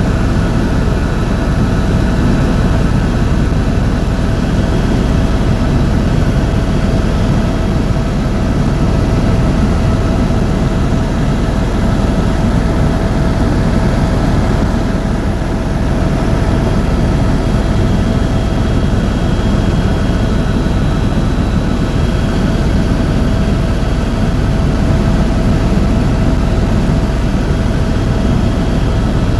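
Tour helicopter's turbine engine and rotor running steadily in flight: a loud, constant drone with a steady whine over it.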